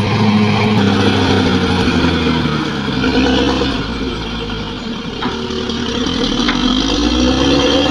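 Bulldozer's diesel engine running under load; its pitch and level sag about halfway through and climb back near the end. Two faint clicks come in the middle.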